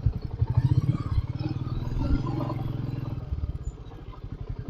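Royal Enfield Meteor 350's single-cylinder engine running with an even, low thumping beat. It eases off about three seconds in as the bike slows.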